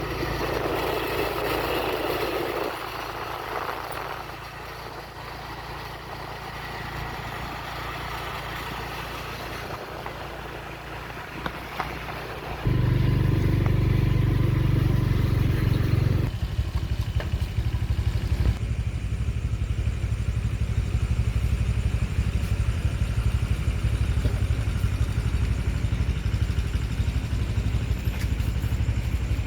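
An engine running, quieter and mixed with background noise at first, then suddenly much louder from about thirteen seconds in, settling into a fast, even firing pulse.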